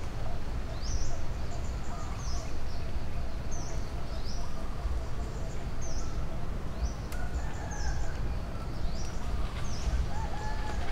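A bird repeating a short, high, upward-sweeping chirp about once a second, over a steady low rumble.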